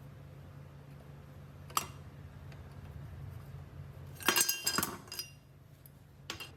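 Small metal parts or tools clinking against each other, with a bright ringing tone: a single click about two seconds in, a quick cluster of clinks past the middle, and another click near the end, over a low steady hum.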